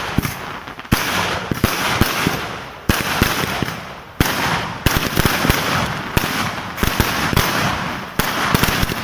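A fireworks display: a rapid string of firecracker bangs and crackling over a continuous roar, with several heavier bangs about every second or two.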